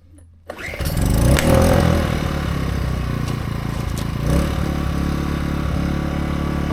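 AiVolt 1600-watt gas inverter generator starting about half a second in, running loudest for a moment, then settling into a steady run.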